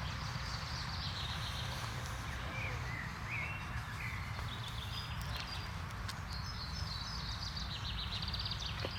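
Several birds chirping and calling, with a quick run of ticking notes near the end, over a steady low rumble.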